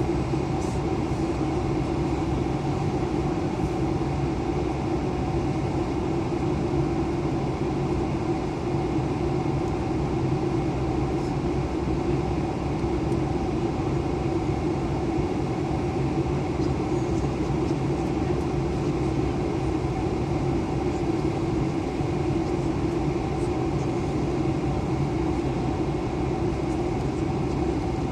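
Steady drone of an Airbus A320, a mix of engine noise and rushing air with a constant low hum running through it.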